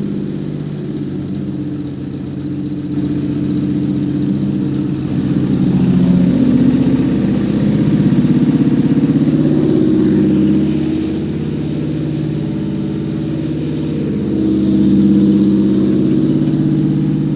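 Toyota 3GR 3.0-litre V6 engine running on a test stand on its first run after being fitted there, idling steadily. The revs rise twice, about six seconds in and again near the end.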